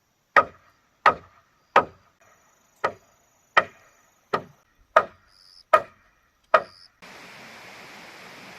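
A blade chopping into wood or bamboo, nine sharp strikes about two-thirds of a second apart. A steady hiss starts near the end and stops suddenly.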